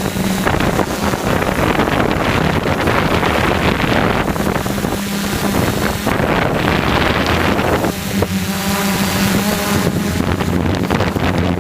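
DJI F450 quadcopter's motors and propellers running steadily in flight, with wind buffeting the microphone. Higher motor tones join in about two-thirds of the way through.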